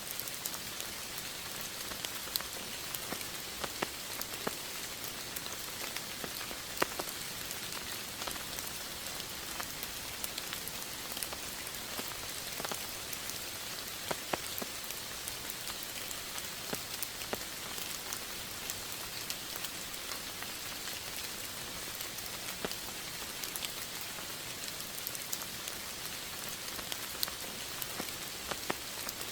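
Steady rain, a constant hiss with many individual drops ticking sharply on a surface.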